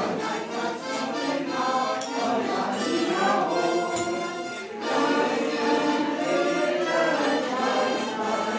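A women's choir singing together, several voices in sustained, wavering tones.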